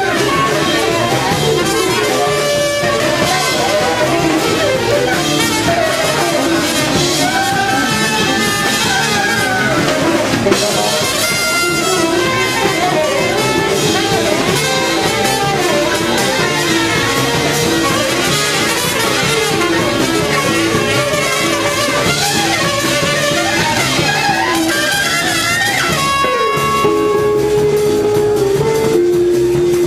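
Jazz quintet playing live: saxophone or brass lines over guitar and drum kit, dense and busy, thinning near the end to a held melodic line stepping down in pitch.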